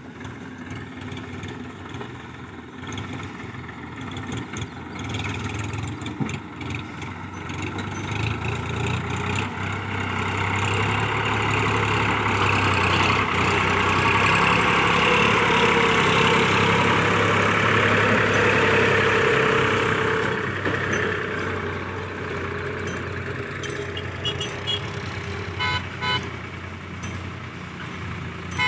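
Tractor diesel engine running, growing louder to a peak about halfway through and then easing off as the tractor comes close and moves on. A few short tooting beeps near the end.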